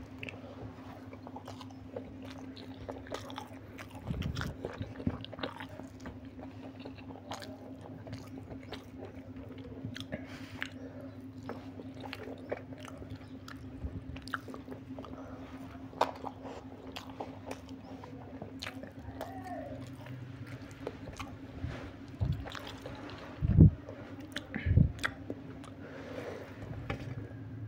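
Close-up chewing and mouth sounds of a person eating egg biryani with the fingers, with many small wet clicks and smacks. A steady low hum runs underneath, and two short low thumps a little over a second apart near the end are the loudest sounds.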